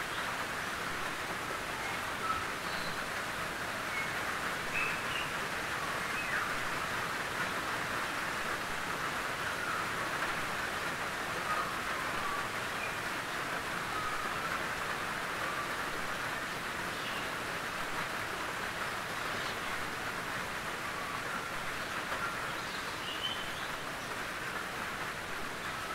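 Gentle rain falling steadily on a tin roof, an even patter with faint brief high chirps here and there.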